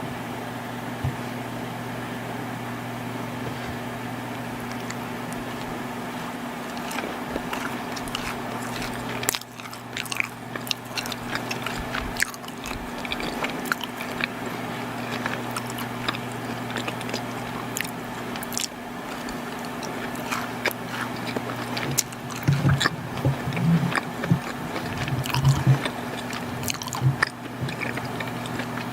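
Close-miked biting and chewing of soft, chewy chocolate baked goods (chocolate crinkle cookies and brownies), heard as wet little clicks and squishes. It starts about a quarter of the way in and grows louder near the end, over a steady low hum.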